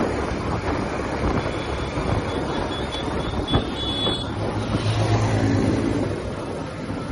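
TVS Apache RTR 180's single-cylinder engine running under way in city traffic, with wind buffeting the microphone. The engine note grows stronger for a moment about five seconds in.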